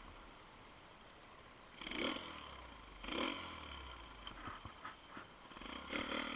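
Small single-cylinder pit bike engine idling, with two short blips of throttle about two and three seconds in and another near the end.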